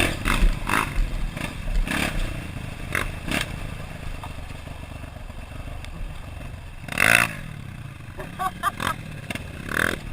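Dirt bike engine running, with irregular short bursts of revving and clatter; the loudest burst comes about seven seconds in.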